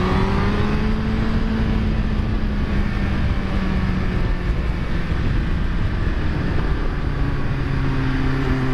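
Yamaha FZ1 inline-four motorcycle engine pulling at steady revs on the road, under heavy wind rush. The engine note levels off early on, then drops to a lower steady note about six seconds in as the revs come down.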